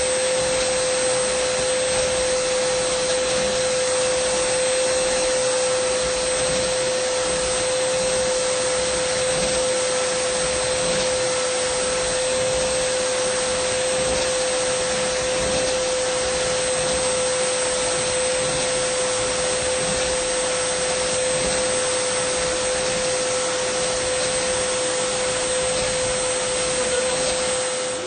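Dyson vacuum cleaner running steadily: a constant high motor whine over an even rush of air.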